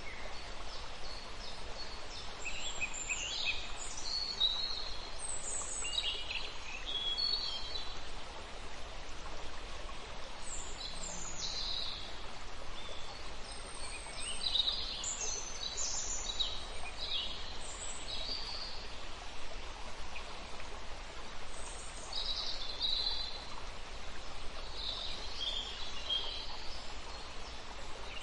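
Birds chirping in short, high phrases every few seconds over a steady, even hiss of background noise.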